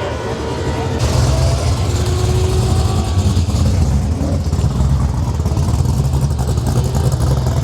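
A muscle car's engine running loudly with a low rumble, growing louder about a second in.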